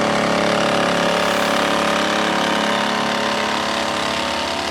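A nearby motorboat's engine running steadily at an even pitch, close and loud; its wake soon sends waves toward a small paddled boat.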